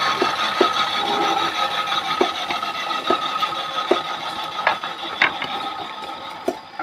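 Maktec power tool cutting wood: a steady high whine with scattered knocks and scraping, dying down near the end.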